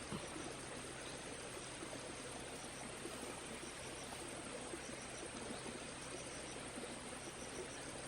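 Tropical forest ambience: a steady high insect drone over a constant hiss, with short high chirps in small groups every second or so and a few faint ticks.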